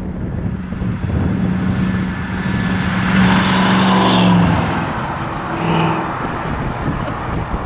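Chevrolet small-block V8 in a mid-1960s Chevy pickup, running with a steady note. It swells louder about three seconds in, eases off after four and a half seconds, and rises briefly again near six seconds.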